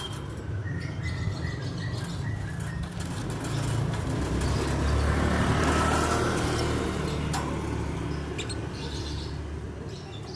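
Lovebirds chirping, with a short run of quick repeated chirps about a second in. A passing motor vehicle's engine rumble swells through the middle and fades away, the loudest sound.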